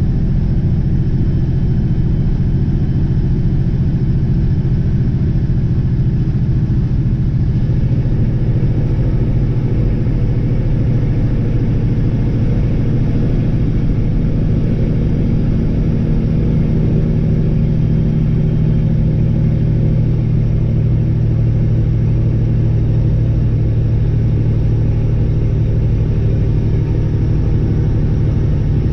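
Peterbilt 359 semi truck's diesel engine running steadily as the truck drives, a low hum with a slight change in pitch about eight seconds in.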